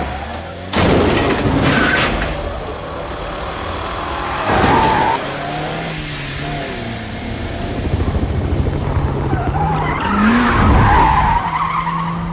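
Film car-chase sound effects: car engines revving hard while tyres squeal and skid, with a loud burst of crashing or clattering impacts about a second in.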